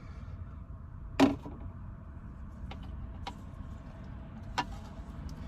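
A sharp knock about a second in, then several lighter taps and clicks, as chopped green onions are scraped off a cutting board into a bowl. A steady low rumble lies underneath.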